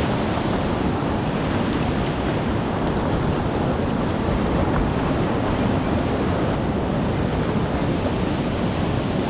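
Steady rush of whitewater on a mountain river.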